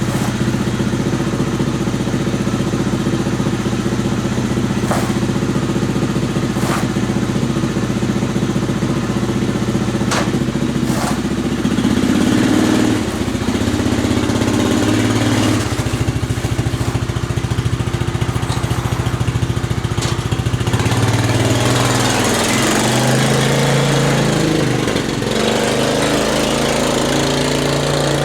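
Suzuki Vinson 500 ATV's freshly rebuilt single-cylinder four-stroke engine running under way, its pitch rising and falling as it is ridden and shifted. A few sharp clicks are heard in the first half.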